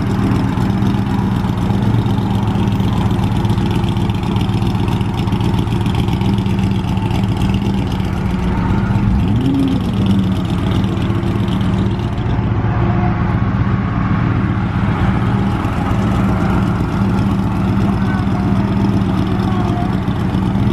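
Car engine idling steadily, with one short rev about nine seconds in.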